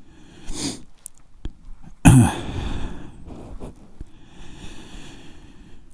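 A person's breathing: a short breath, then a louder sigh-like exhale with a falling voiced tone about two seconds in.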